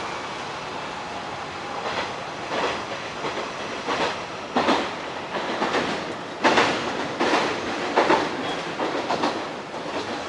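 Train sounds with a series of irregular sharp clacks and knocks over a steady background noise, coming thickest and loudest in the middle of the stretch.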